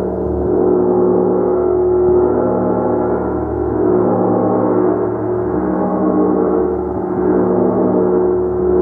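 A gong being played continuously, ringing in a dense wash of many overlapping tones with gentle swells in loudness every couple of seconds and no sharp strikes.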